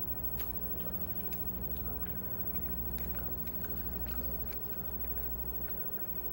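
A person chewing a mouthful of sandwich scraps, with soft, irregular mouth clicks.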